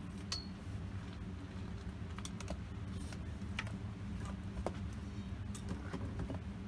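Wood campfire crackling, with irregular sharp pops and snaps over a steady low rumble of burning.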